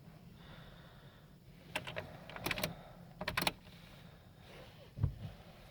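Clusters of sharp clicks and rattles about two and three seconds in, then a single dull thump near the end, over a low steady hum.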